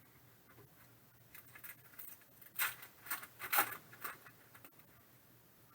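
Trading cards flipped through by hand, with a handful of short crisp swishes and flicks of card against card over a couple of seconds in the middle.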